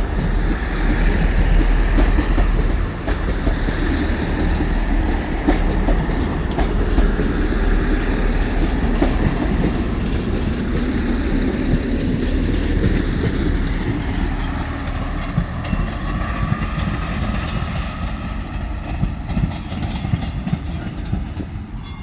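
Diesel train running through the station: a heavy low engine rumble with the wheels clicking over the rail joints, growing fainter over the last several seconds.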